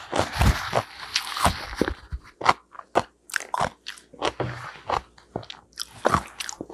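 Close-miked chewing: a run of sharp crunches as crisp food is bitten and chewed. A paper tissue rustles through the first two seconds.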